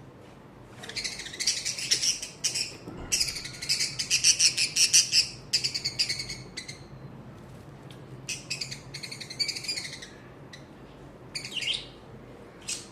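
Pet budgerigars chirping and chattering in quick, busy runs of high calls, densest in the first half, with a few short separate calls near the end.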